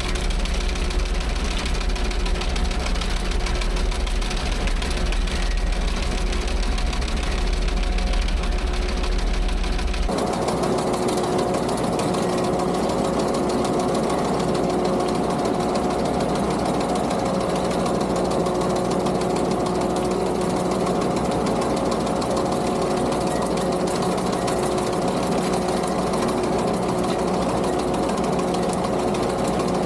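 Skid steer engine running steadily with a sickle bar mower attachment chattering as it cuts overgrowth; the sound shifts abruptly about a third of the way through, the deep low rumble dropping away.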